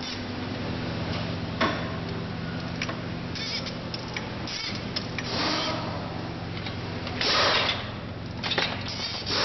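Hand tools and engine parts being handled: scattered metal clicks and knocks and a few short scraping bursts, the loudest about three-quarters of the way in, over a steady low hum.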